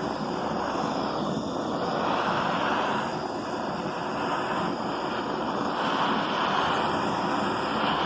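Handheld butane gas torch burning with a steady hiss, heating aluminium pieces toward the temperature at which the Durafix filler rod will flow.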